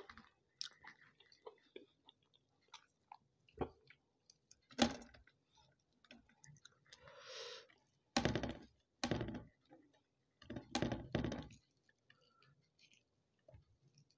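Close-miked eating sounds of a man eating chicken and rice by hand: wet mouth clicks and chewing, with a few louder stretches of chewing in the second half.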